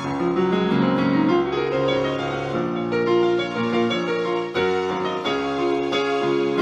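Instrumental piano music: held chords with a rising run of notes in the first two seconds, the chords changing every second or so.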